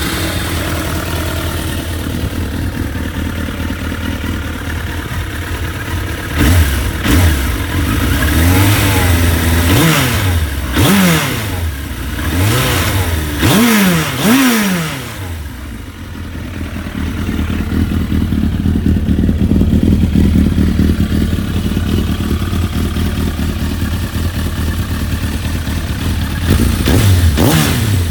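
1998 Suzuki GSX-R1100's inline-four engine, freshly started, running through a titanium Akrapovic 4-2-1 full exhaust. It idles for a few seconds, is revved in a string of quick throttle blips in the middle, settles back to a steady run, then is blipped again near the end.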